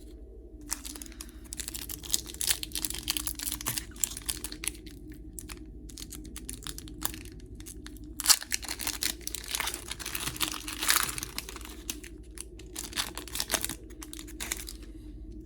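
Foil booster pack wrapper crinkling and tearing, with trading cards being handled: irregular crackly rustling that comes and goes, with a sharp crackle about eight seconds in.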